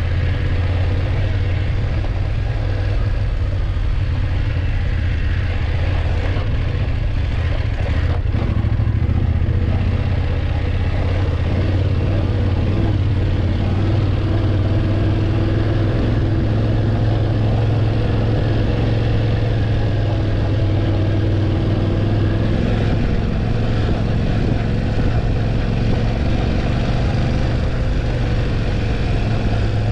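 BMW F850GS motorcycle's parallel-twin engine running steadily under way, with a slight change in pitch a little over two-thirds of the way through.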